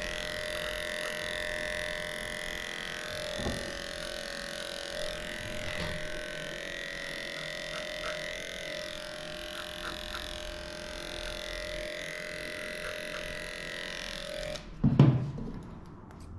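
Electric grooming clippers running with a steady hum, switching off about 15 seconds in, followed at once by a short, loud, low thump.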